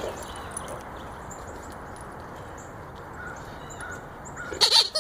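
Birds chirping in short, high calls over a steady outdoor hiss, with one louder, brief call near the end.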